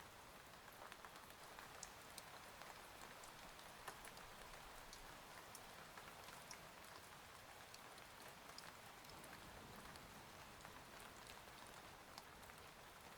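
Faint, steady rain on a window, an even hiss with scattered single drops ticking.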